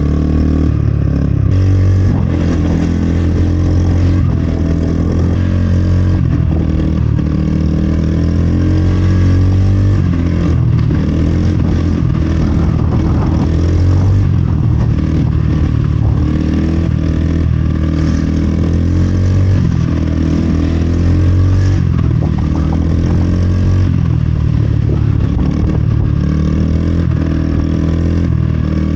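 Steady running noise of a vehicle on the move: a constant low hum with some rattle, without pauses.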